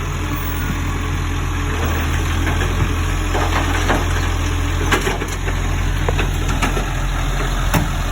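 Garbage truck engine idling with a steady low hum, with several sharp knocks and clanks in the second half.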